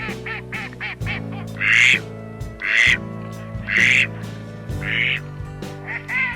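Ducks quacking over background music: a run of quick short calls, then four loud harsh quacks about a second apart, and quick calls again near the end.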